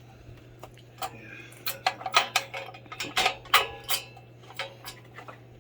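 A quick, irregular run of sharp clicks and clinks, hard parts knocking together, between about one and five seconds in.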